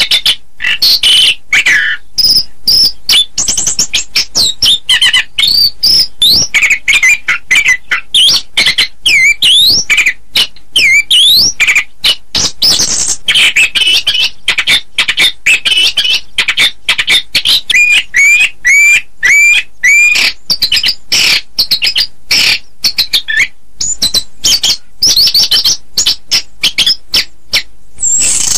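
Orange-headed thrush (anis kembang) singing without a break: a rapid run of varied whistles, trills and quick up-and-down slurred notes.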